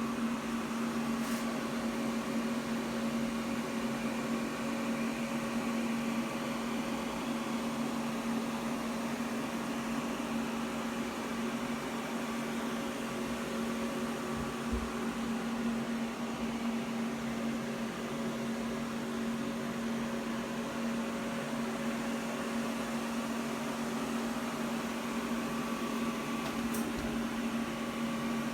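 Aluminum welding arc held steadily on a charge pipe, a continuous buzzing hum with a steady tone over a hiss.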